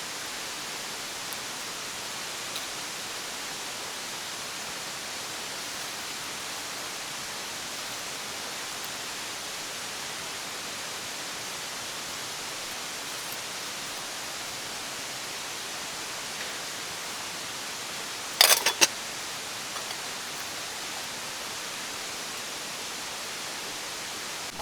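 Steady rush of a mountain stream flowing over rocks, with a short cluster of sharp knocks about three-quarters of the way through.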